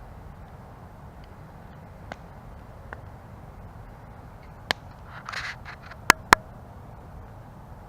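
Wood campfire burning with a steady low rumble and scattered sharp pops and cracks from the burning wood. About five seconds in there is a brief hiss, followed by the two loudest pops a quarter of a second apart.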